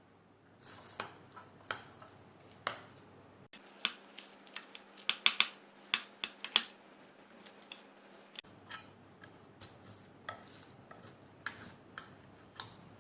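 Metal cutlery clicking and tapping against a plate in a quick run of sharp, separate clicks, busiest in the middle.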